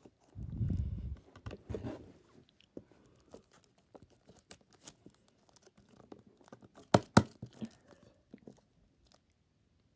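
Snack wrappers and packages rustling and crinkling as they are handled and put away, with scattered light clicks and two sharp knocks in quick succession about seven seconds in.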